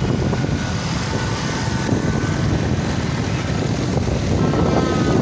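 Steady rush of wind and motorcycle engine and road noise while riding through traffic, with faint short high tones near the end.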